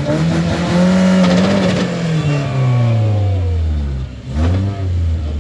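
Rock-crawling truck's engine revved hard at high throttle. The revs climb, hold high for a few seconds, then fall away, and after a brief dip near the four-second mark there is another quick rev.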